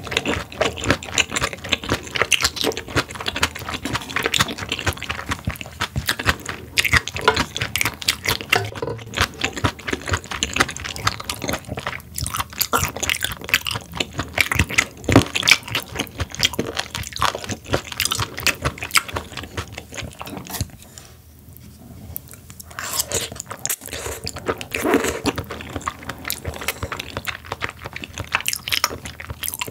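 Close-miked chewing of sturgeon, with crunching and wet mouth clicks. It eases off briefly a little past two-thirds of the way through.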